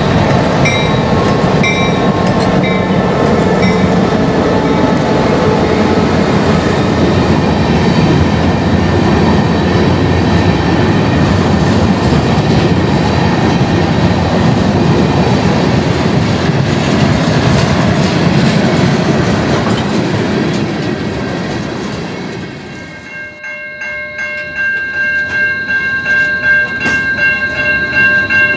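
Freight train passing close by: diesel locomotives working, then freight cars rolling past with their wheels clacking over the rail joints. Near the end the sound drops suddenly and is replaced by a steady high-pitched ringing tone from the slowly moving train.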